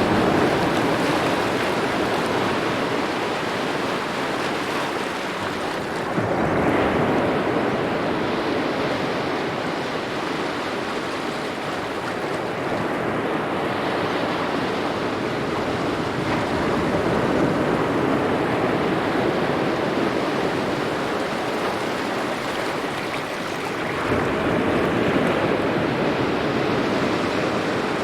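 Small waves lapping on a shore in a steady wash, swelling several times as each wave comes in.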